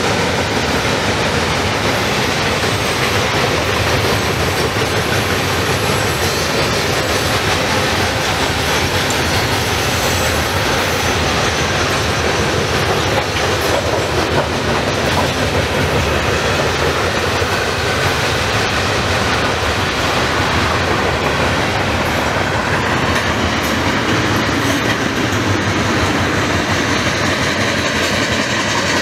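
Freight train of boxcars, covered hoppers and tank cars rolling past, its steel wheels on the rails making a steady, loud rumble that holds even throughout.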